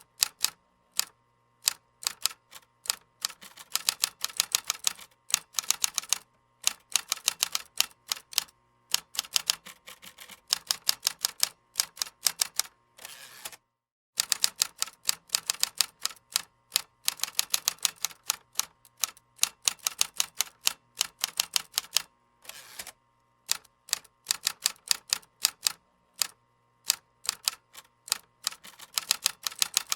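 Typing on a computer keyboard: rapid key clicks in runs of a few seconds with short pauses between them, broken by a brief total silence about fourteen seconds in.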